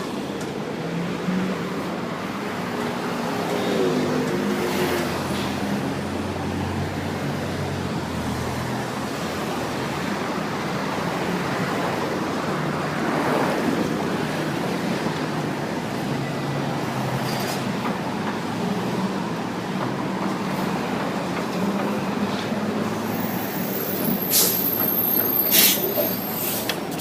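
Street traffic noise, with a heavy vehicle's engine running low through the first several seconds. A few sharp clicks come near the end.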